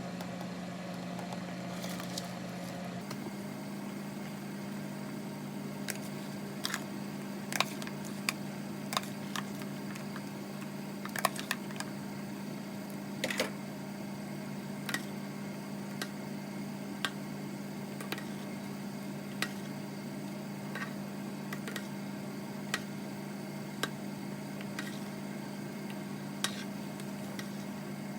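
Steady low mechanical hum from a kitchen appliance, with irregular sharp knocks every second or two, like a knife cutting against a chopping board.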